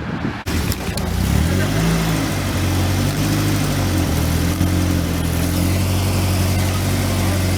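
A car engine running at low revs close by. Its pitch rises a little about a second in, then holds fairly steady.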